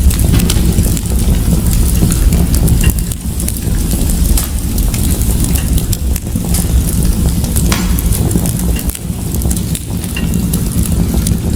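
Fire crackling in a fireplace, with frequent irregular sharp pops over a steady low rumble of the flames.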